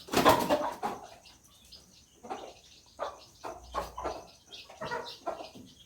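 Chicks peeping in short, separate calls scattered irregularly, after a louder noise right at the start.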